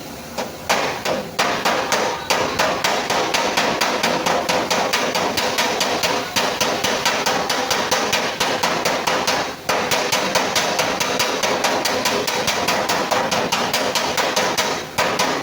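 Hand body hammer tapping out a sheet-metal car fender panel in quick, even strikes, about four a second, with the panel ringing under the blows. The hammering breaks off briefly past the middle, then carries on to the end.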